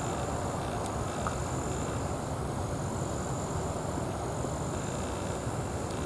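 Steady, distant rumble of a Boeing 777 jet airliner passing high overhead at cruise altitude. Over it, an insect's high thin trill comes in stretches of a second or more, broken by short gaps.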